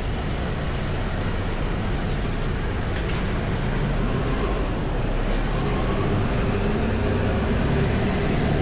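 Strong wind buffeting the microphone as a steady low rumble, over city street noise.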